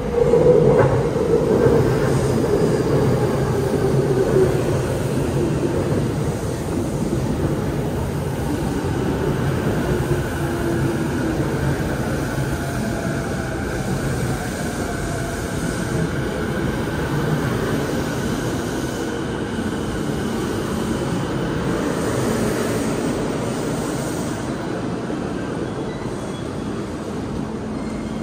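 Green-striped Saikyō Line electric commuter train pulling into the platform, its motor whine falling in pitch over the first dozen seconds as it brakes. It then stands with a steadier, quieter hum.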